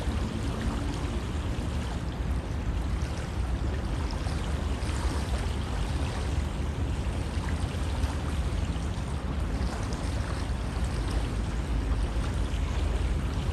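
River water flowing steadily, an even, continuous rush with a strong low rumble underneath.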